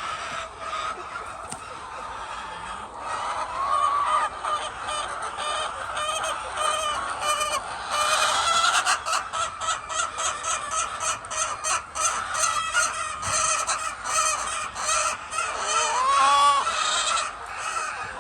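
A flock of chickens clucking and calling over one another, with a rising squawk about four seconds in and another near the end.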